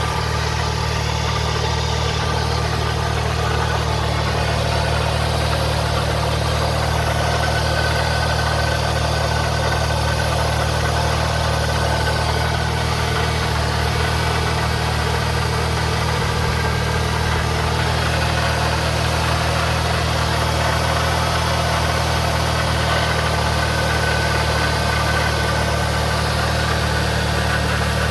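Toyota Sienna's 3.3-litre V6 engine idling steadily.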